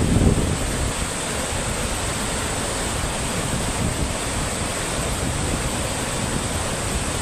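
Steady rushing of water, with wind buffeting the microphone in the first second.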